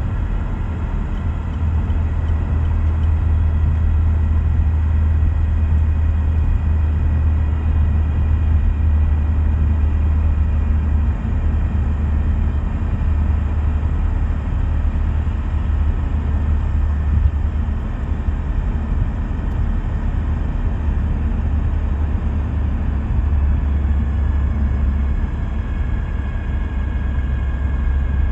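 Car driving at speed: steady low rumble of road and drivetrain noise with faint, steady whining tones, the sound problem the owner is demonstrating between 50 and 140 km/h.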